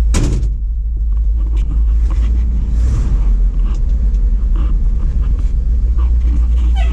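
Ford F700 truck's 370 V8 gasoline engine running with a steady low rumble as the truck is driven slowly, with a sharp click right at the start and light rattles over the top.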